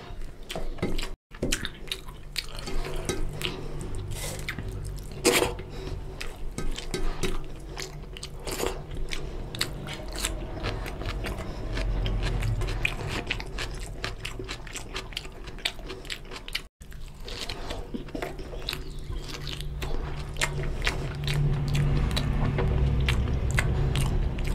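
Close-miked eating by hand: wet chewing, lip smacks and finger-licking, a dense run of small mouth clicks. The sound drops out for an instant twice, at edit cuts.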